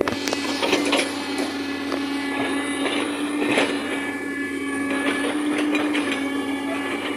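Excavator running under load, a steady mid-pitched engine and hydraulic whine, with repeated metallic clanks and scrapes from the machine working.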